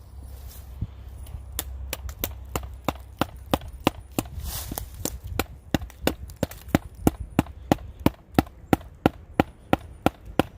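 A wooden baton striking a pocket knife's spine to drive it into a log and split it for firewood. The sharp wooden knocks come about three a second and grow louder from about a second and a half in.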